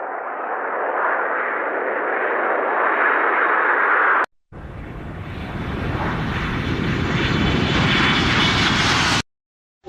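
Two short clips of a vehicle's rushing, pitchless noise, each growing steadily louder, separated by a brief silent cut. The second clip is fuller, with a deep rumble underneath.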